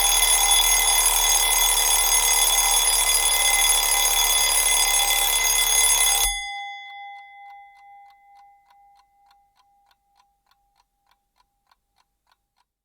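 Alarm clock bell ringing loudly, then stopping about six seconds in; a fading ring lingers, and the clock's ticking, about three ticks a second, grows fainter until it dies out near the end.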